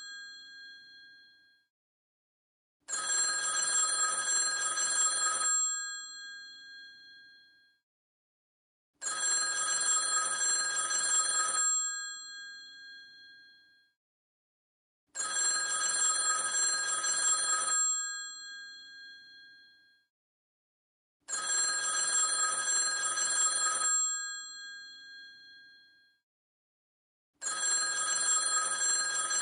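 Old telephone's mechanical bell ringing in bursts of about two and a half seconds, each one trailing off as the bell rings down, with silence between. The ring repeats about every six seconds, five times.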